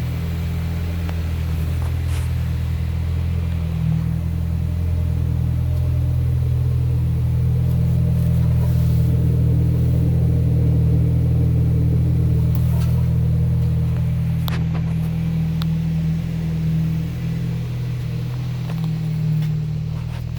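2010 Nissan Sentra's 2.0-litre four-cylinder engine running steadily, getting a little louder about halfway through and then settling back.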